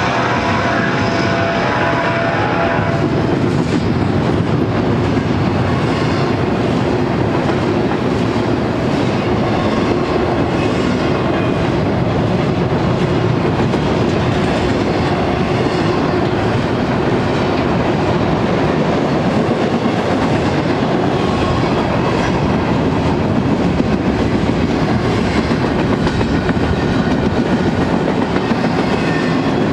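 Double-stack intermodal freight cars (empties) rolling past steadily, steel wheels clacking and rumbling along the rails in a continuous loud din.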